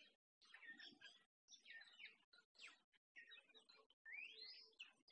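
Faint birdsong: several small birds chirping and calling over one another, with one clear rising call about four seconds in.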